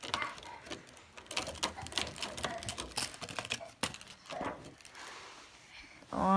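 Irregular clicks and crackles of plastic toy packaging being handled and opened by hand, with scattered sharp ticks.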